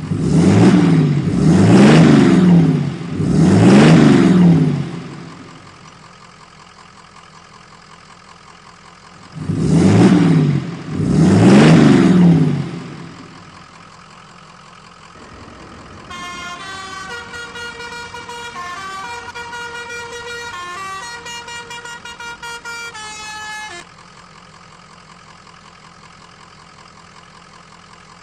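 Vehicle horn blasts, each about a second long with a pitch that swells up and falls away: three in a row at the start and two more about ten seconds in. Later a tinkling electronic tune plays for about eight seconds.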